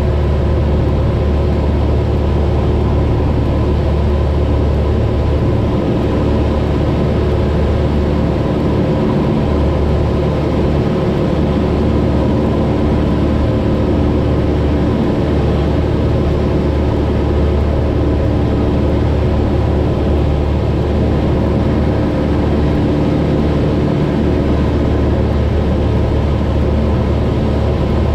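Cessna 172's piston engine and propeller droning steadily in cruise flight, heard from inside the cabin.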